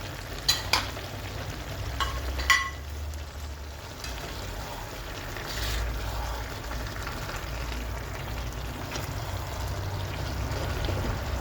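Strips of raw beef going into a pan of vegetable sauce and sizzling. A few sharp utensil clinks against the pan come in the first couple of seconds, then the frying settles into a steady sizzle.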